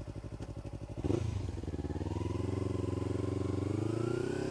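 Kawasaki Ninja 300's parallel-twin engine through an Akrapovič slip-on exhaust, idling with an even pulse. About a second in it gets louder and the pitch climbs slowly and steadily as the bike pulls away.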